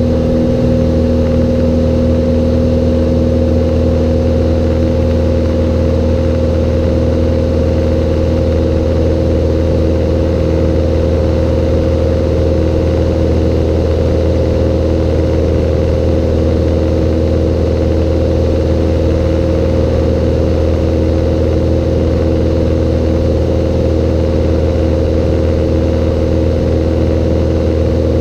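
Cessna 182's single piston engine and propeller droning steadily at constant power, with no change in pitch.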